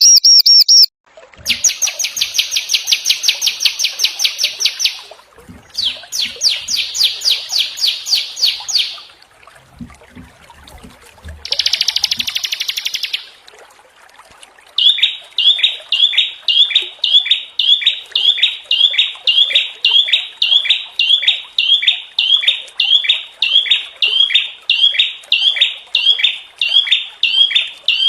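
Small songbirds singing in a spliced masteran recording: several rapid, harsh trilling bursts a few seconds long with short gaps between them, then from about halfway a single call repeated steadily about twice a second.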